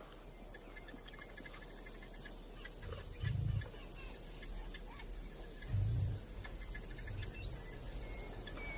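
Wild woodland ambience: insects and birds chirping in quick short series, with two low thuds about three and six seconds in.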